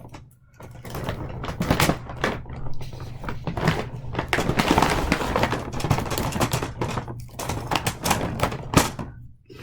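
Toy train track pieces and packaging being handled: a busy run of plastic clicks, clatter and rustling.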